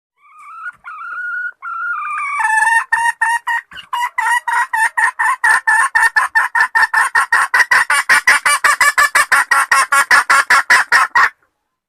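Junglefowl hen calling to draw a cock: a few drawn-out notes, then a fast, even run of clucks at about four or five a second that stops abruptly near the end.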